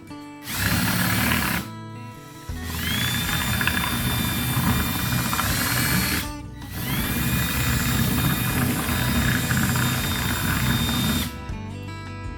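Electric drill run three times: one short burst, then two long runs. Each spins up with a rising whine and then holds a steady pitch while boring a hole for a chicken waterer nipple. Acoustic guitar music plays underneath.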